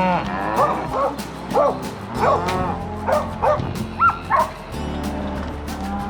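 Dog barking: a quick run of about nine short barks and yips that stops about four and a half seconds in, over steady background music.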